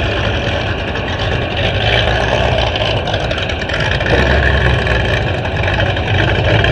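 An engine idling steadily with a dense, unchanging rumble.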